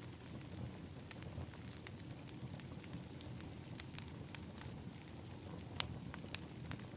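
Wood fire in an outdoor fire pit crackling: irregular sharp pops and snaps over a steady low rumble, with one louder pop near the end.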